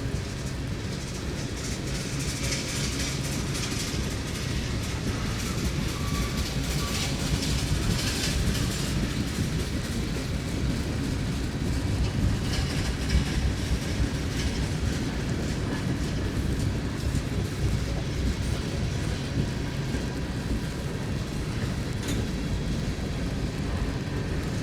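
Train passing close by, its cars rolling steadily with wheels clicking over the rail joints.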